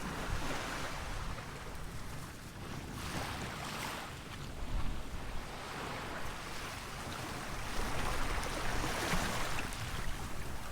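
Surf washing onto a beach in slow, rising and falling swells, with strong wind buffeting the microphone in a low rumble.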